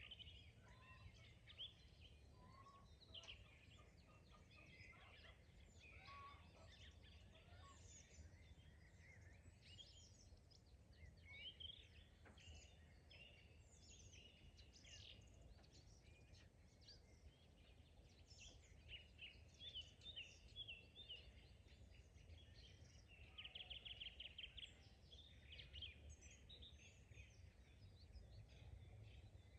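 Faint chorus of small songbirds chirping and trilling throughout, with a quick run of repeated notes about two-thirds of the way in, over a steady low rumble.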